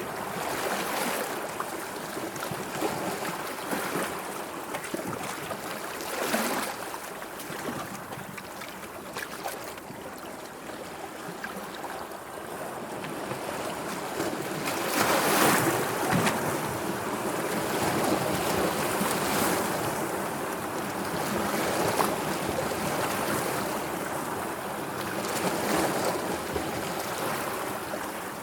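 Sea waves washing in and out, a steady rush of water that swells and ebbs, with the biggest surge about halfway through.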